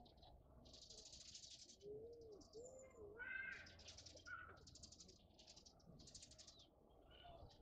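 Faint birds calling: a series of short, harsh, high calls repeating about once a second, with a few whistled notes among them.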